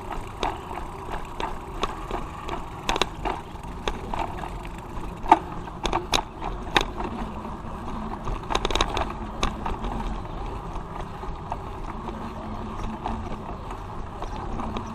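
A bicycle riding along a paved street: a steady rolling noise from the tyres, with sharp rattles and knocks scattered through the first two-thirds as the bike goes over bumps.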